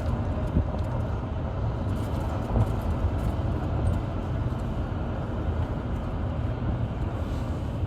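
Steady low engine rumble of a running vehicle, even throughout with no change in pitch.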